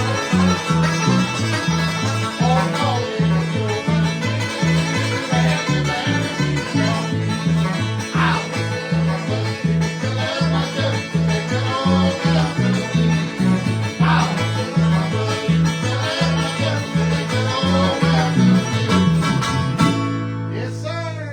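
Acoustic bluegrass played live: picked banjo and guitar over a steady, driving bass-note rhythm. Near the end the rhythm stops and the band lands on a final chord that rings and fades.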